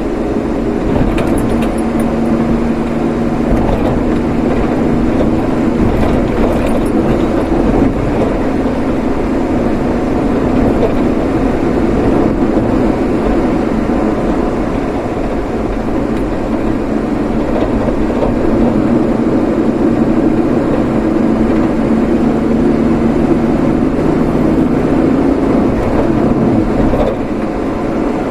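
Steady engine and road noise of a vehicle being driven, a low drone with a constant hum.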